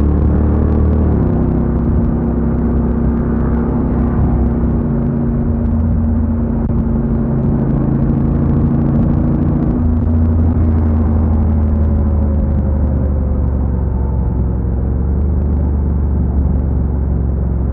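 Honda NC750X's 745 cc parallel-twin engine running on the move at low revs. Its note drops about a second in and shifts again near ten seconds, over steady road noise.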